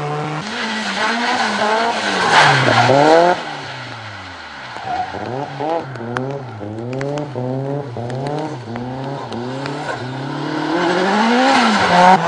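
A drift car's engine revving up and down as the throttle is worked through the slides, its pitch rising and falling about once a second. A little after three seconds in it falls away in one long drop in pitch and goes quieter, then keeps rising and falling before swelling again near the end.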